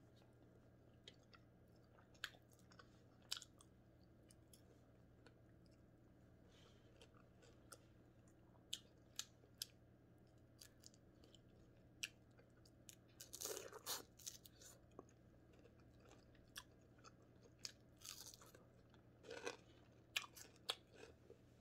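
Close-miked biting and chewing of crispy fried scad (matambaka), the crunching of fried fish skin and small bones. It comes as scattered sharp crunches and clicks, with denser bursts of crunching a little past the middle and again near the end.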